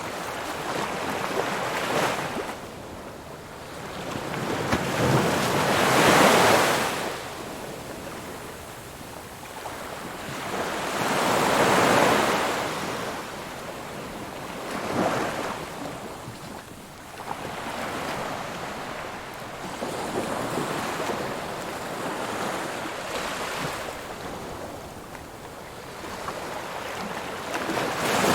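Ocean waves breaking on a shore, surging and receding every few seconds, with a few louder breakers rising above a steady wash of surf.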